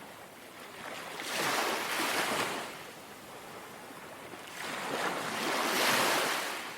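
Calm sea waves lapping gently, washing in twice, each wave swelling and fading over about two seconds.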